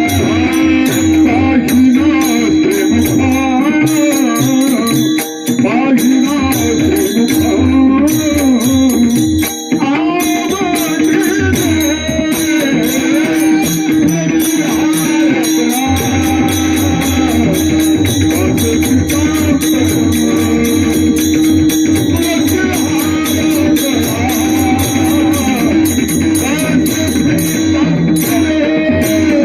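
Varkari kirtan music: a man sings long, ornamented melodic lines over a steady drone. Pakhawaj drum and small hand cymbals keep a regular beat.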